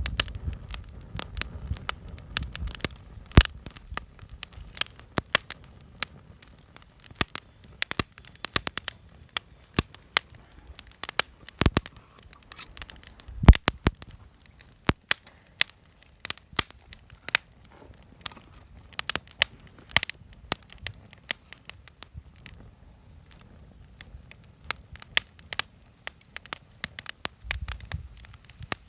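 Wood campfire crackling, with irregular sharp pops from the burning wood; the loudest pops come about three and a half seconds in and again near the middle.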